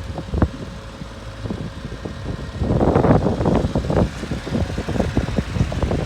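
1997 Mitsubishi mini truck's 12-valve engine idling smoothly. About two and a half seconds in, a louder, irregular rumbling noise joins it.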